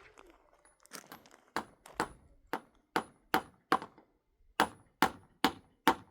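Hammer driving nails into wooden boards: a run of about a dozen sharp blows, two to three a second, many with a short ringing ping, with a brief pause about four seconds in.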